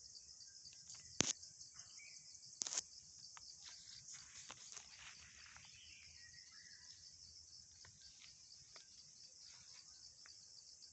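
Insects chirping steadily in a high, pulsing chorus, fairly faint, with two sharp snaps, about a second and about two and a half seconds in.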